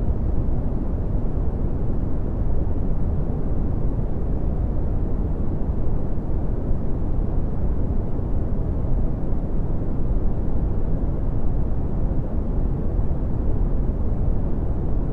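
Steady red (Brownian) noise: a constant, even rumbling hiss with its energy concentrated in the bass and falling away toward the treble.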